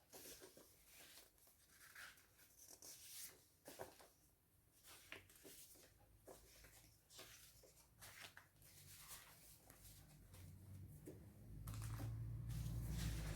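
Faint handling of paper and craft materials: scattered soft rustles and short tearing sounds. A low hum comes in near the end.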